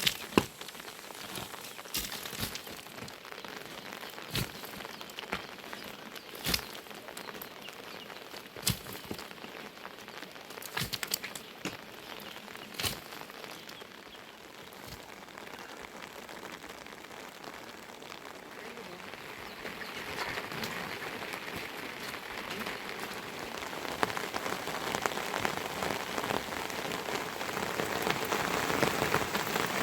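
Rain: single heavy drops strike a surface every couple of seconds at first, then the rainfall thickens and grows steadily louder over the last third.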